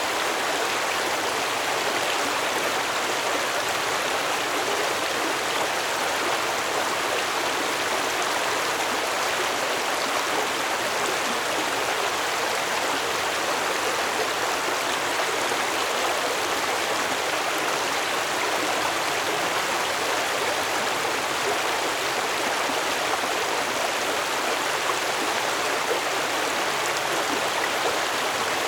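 Stream water flowing steadily over stones: an even rushing and babbling with no change in level.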